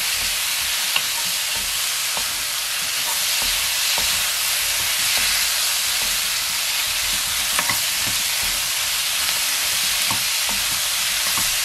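Chicken pieces and tteokbokki rice cakes sizzling in oil in a nonstick wok, stirred with a wooden spatula: a steady frying sizzle with a few light knocks of the spatula on the pan. They are being stir-fried until the rice cakes turn soft.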